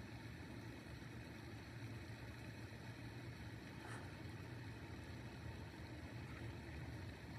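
Faint, steady low rumble of outdoor background noise, with one faint tick about four seconds in.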